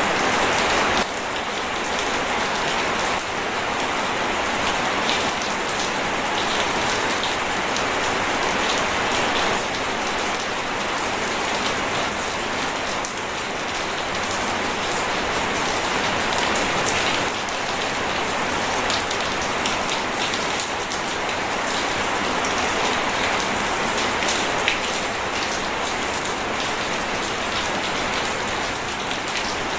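Steady rain falling on a surface, a dense hiss of many fine drop ticks, dipping slightly in level about a second in; no thunder.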